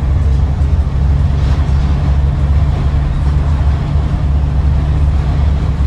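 Scania N94UD double-decker bus running on the road, heard from inside the passenger cabin: a steady low engine drone under road noise.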